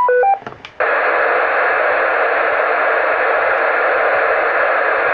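VHF FM transceiver on a 2 m repeater: a quick run of short beeps at stepping pitches right after the transmission ends, the repeater's courtesy tone. About a second in, a loud, steady radio hiss comes through the speaker, open-squelch noise on the channel between transmissions.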